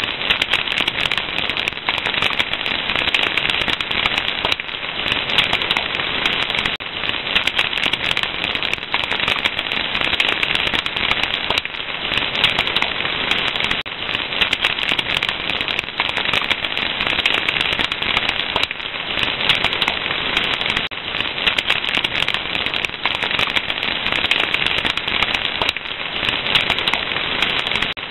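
Fire crackling: a dense, steady stream of small pops and snaps over a soft hiss.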